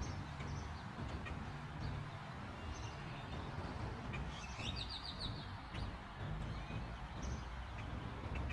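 Faint outdoor ambience: small birds chirping every second or two over a steady low rumble, with a quick run of repeated chirps about five seconds in.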